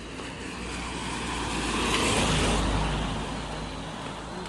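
A motor vehicle passing by: tyre and engine noise with a low rumble that builds to its loudest about halfway through, then fades.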